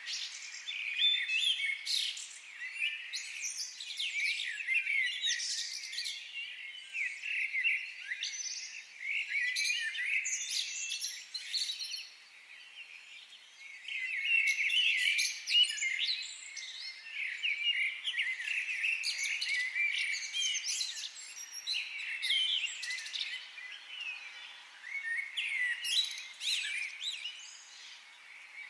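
Several birds chirping and singing at once in a forest, a dense chorus of high, quick calls and trills that eases off for a couple of seconds near the middle.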